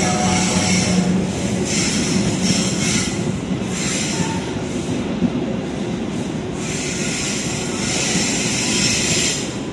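Locomotive-hauled passenger coaches rolling past on the platform track: a steady wheel rumble, with a high-pitched squeal from the wheels coming and going several times.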